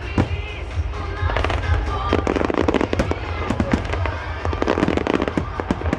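Aerial fireworks shells bursting in quick succession: many sharp bangs and crackles over a steady low rumble.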